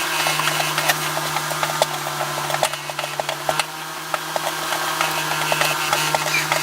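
Wooden panelling being worked apart with tools: scattered sharp clicks, knocks and creaks of wood, over a steady low hum.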